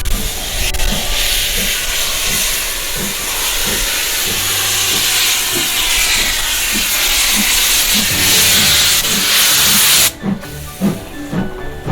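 Steam locomotive venting steam in a loud, steady hiss that cuts off suddenly about ten seconds in, over background music with a steady beat.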